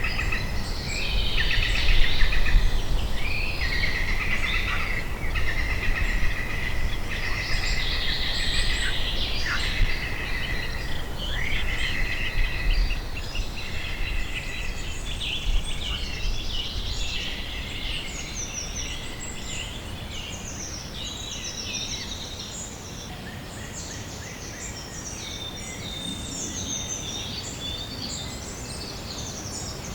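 A chorus of small songbirds singing and chirping, with many quick overlapping trills and chirps, over a low steady rumble. The lower, denser song fades after about the first half, and higher-pitched chirping carries on.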